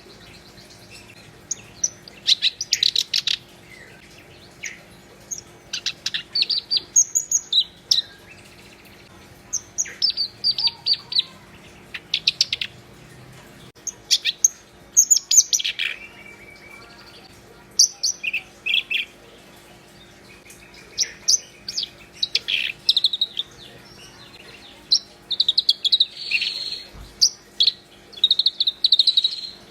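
Black-browed reed warbler singing: short bursts of rapid, chattering high notes, repeated over and over with brief pauses between phrases.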